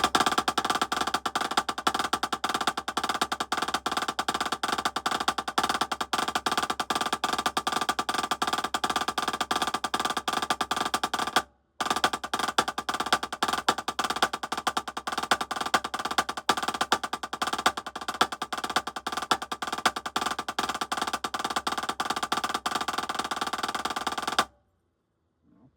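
Fast, continuous drumstick strokes on a drum, played as a rudiment exercise with regular louder accents among quieter taps. The playing breaks off briefly about halfway through and stops shortly before the end.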